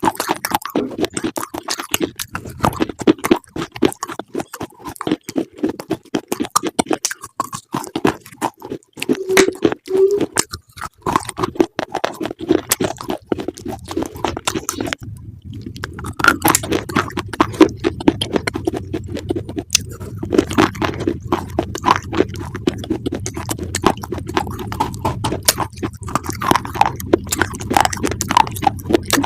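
Close-miked chewing of crunchy food: dense, rapid crunches with a short pause about halfway through.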